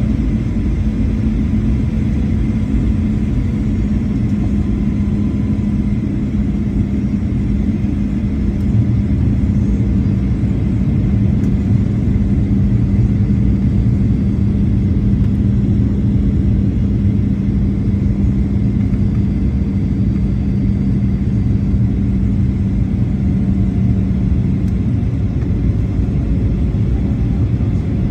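Boeing 737-800 cabin noise in flight: a loud, steady rumble of engines and airflow with a constant low hum.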